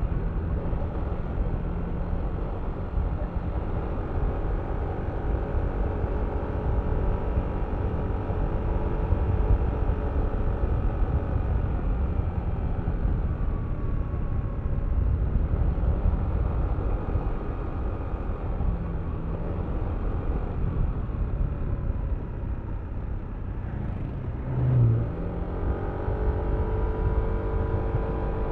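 Yamaha Aerox V3 scooter's single-cylinder engine running under way, with heavy wind rumble on the microphone. The engine note eases off around the middle, dips about three-quarters through, then climbs again as the scooter accelerates near the end, with a short low bump just before.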